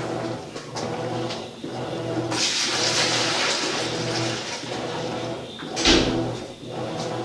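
Maytag washing machine washing: a steady motor hum with water sloshing and swishing in the tub, the swish swelling about two seconds in, and a short louder burst near the end.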